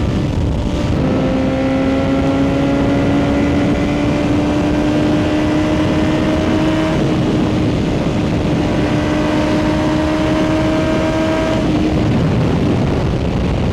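Motorcycle engine under way at a steady cruise under heavy wind rush. Its note steps down about a second in, like a gear change, then climbs slowly for about ten seconds before falling away near the end as the throttle eases.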